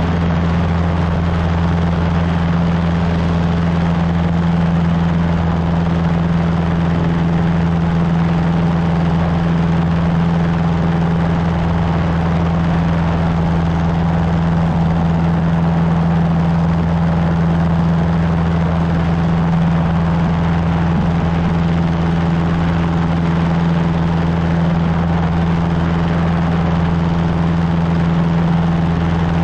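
Cessna 150's Continental O-200 four-cylinder engine and propeller running at steady power in flight, a constant unchanging drone.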